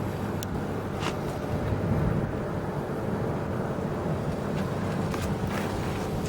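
Homemade tractor's engine running steadily, a low rumble with a few short sharp clicks over it.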